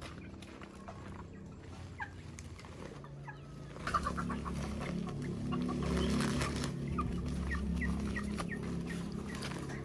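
Chickens clucking, with short high calls scattered through. A low steady hum comes in about four seconds in and stays under them.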